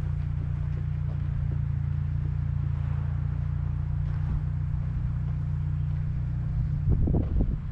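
Truck engine idling steadily with a low, even hum, and some brief irregular louder sounds near the end.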